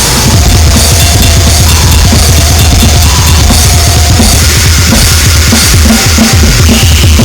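Harsh noise music: a dense, very loud wall of distorted electronic noise over rapid, pounding drumming, with a few brief held tones poking through in the middle.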